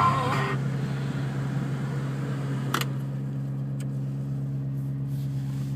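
2008 Shelby GT500's supercharged 5.4-litre V8 idling steadily on a cold start at 9 degrees, with a single sharp click about three seconds in.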